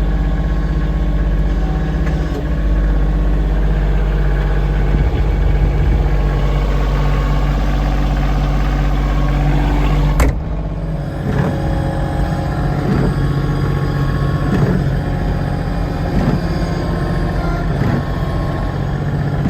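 Kioti CK2610 tractor's three-cylinder diesel engine running steadily under load while pushing snow with the front blade. About ten seconds in there is a sudden click and the sound changes, the engine then running lighter and rising and falling in pitch.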